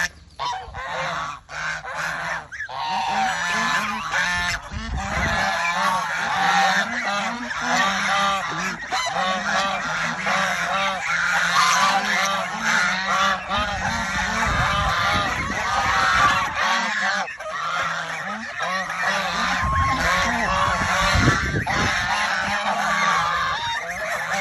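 A flock of domestic geese honking continuously, many calls overlapping.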